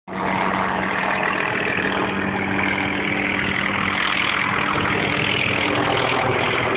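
Police helicopter flying overhead, a steady drone with a constant low hum.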